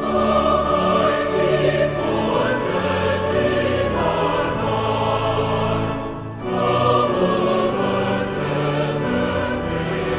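Choral music with orchestral accompaniment, many voices singing sustained notes; the sound dips briefly about six seconds in and then the phrase begins again.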